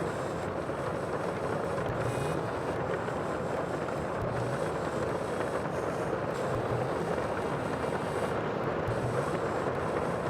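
Steady rushing sea noise, with a soft low swell returning every second or two.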